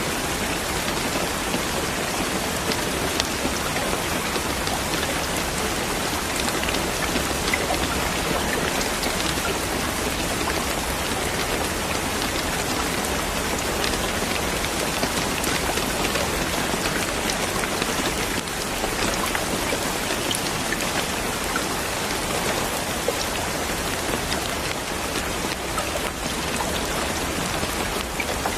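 Steady, dense rain falling on a surface, with many small drops pattering through an even hiss.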